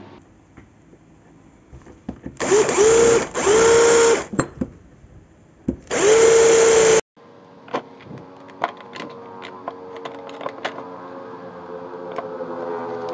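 An electric power tool motor runs in four short bursts, each spinning quickly up to speed and holding steady, the last about a second long. It cuts off sharply, and a quieter stretch with scattered clicks and steady tones follows.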